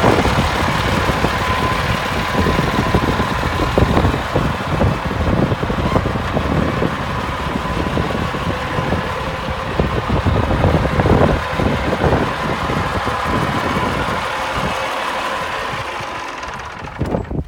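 Diesel engine of a 1989 Peterbilt 375 truck running steadily, easing off a little near the end.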